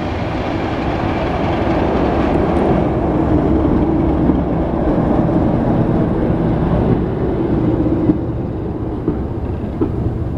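A train running on the line, its noise with a steady hum swelling over the first few seconds and easing off after about seven seconds, with a few sharp knocks near the end.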